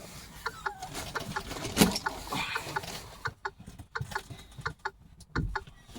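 A hen clucking in short, repeated calls, with a single knock about two seconds in.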